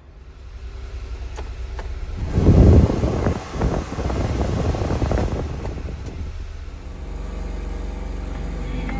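A 1996 Honda Acty mini truck's small three-cylinder engine running. It builds up over the first two seconds and is loudest, with a rush of noise, for about three seconds in the middle. It then settles to a steady low hum.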